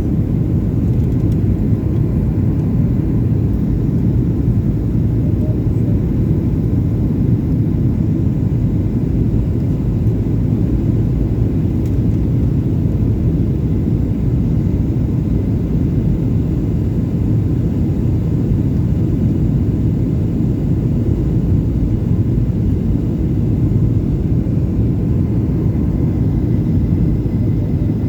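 Boeing 737-800 jet airliner heard from inside the cabin: a steady low rumble of engines and airflow that holds even throughout.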